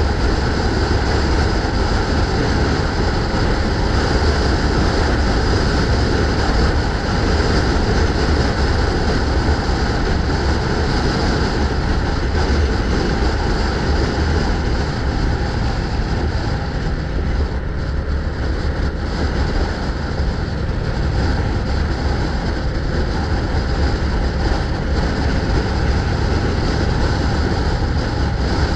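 Steady rushing wind noise on the microphone with road rumble from a moving bike.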